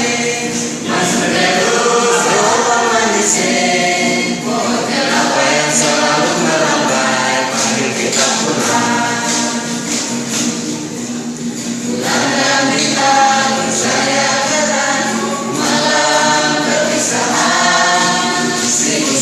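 A group of voices singing together in chorus over a steady percussion beat.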